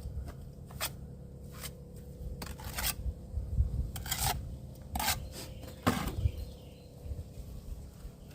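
A series of short scraping strokes, about six in several seconds, over a low rumble.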